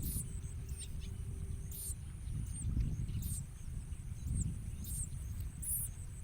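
Bar-winged prinias giving short, high chirps about once a second, over a steady high whine and a low rumble.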